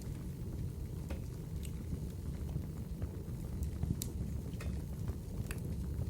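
Fireplace fire burning: a steady low rumble with sharp crackles and pops at irregular intervals, several within a few seconds, the strongest about four seconds in.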